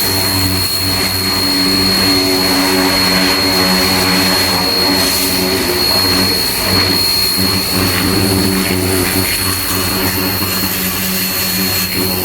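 Ava P25 high-pressure washer running steadily while spraying: an even motor hum with a constant high whine over it and the hiss of the water jet.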